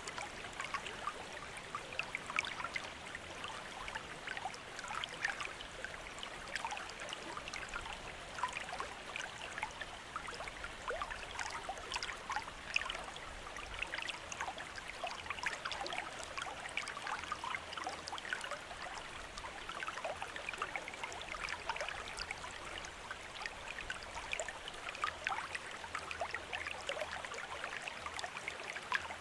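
Bamboo water fountain running: water trickling and splashing in a steady, irregular patter of small drips and splashes.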